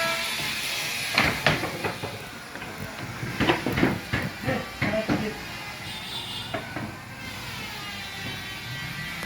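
Irregular knocks and clacks from carpentry on a wooden house, bunched in the first half, then a quieter stretch.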